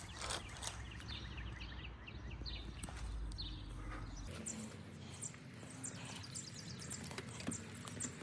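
Birds chirping over and over in short falling notes, with a few light clicks and knocks from parts being handled and a low rumble that stops about halfway through.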